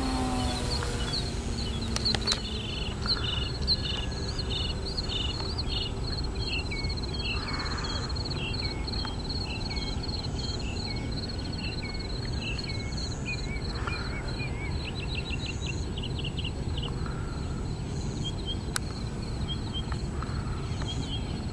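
Birds chirping in a long run of short, quick high notes over a steady low wind rumble on the microphone; the RC plane's electric motor whine drops in pitch and dies away in the first second.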